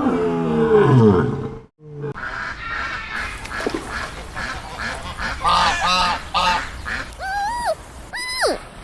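A cow mooing with low calls that fall in pitch, cut off about two seconds in. Then waterfowl call again and again, a flock of honking and quacking calls, some rising and falling in arcs near the end.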